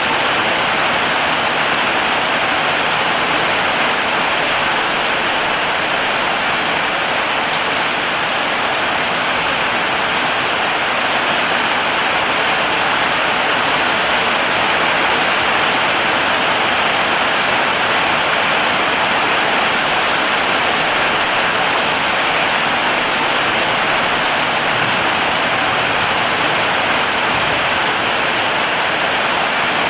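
Heavy rain falling steadily, an even hiss of many drops with no breaks or changes.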